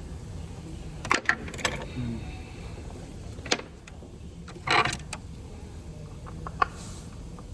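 Scattered sharp clicks and knocks of metal tools and parts being handled, with a short scrape a little past the middle, over a low steady hum.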